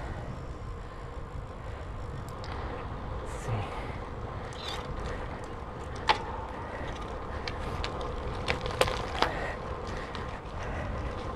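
Bicycle being pedalled with a steady running hum from the drivetrain, broken by a few sharp clicks from the crankset and bottom bracket area: one about six seconds in and three close together around nine seconds. This is the little crack that comes under hard pedalling, which the rider traces to the Praxis crankset or the BB386 EVO press-fit bottom bracket.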